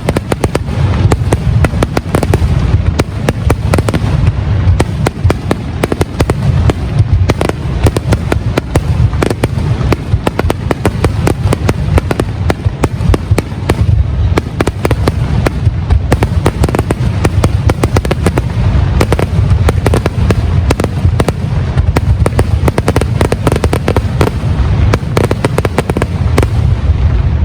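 Fireworks display at full barrage: dense, continuous crackling of many small bursts over steady low booming.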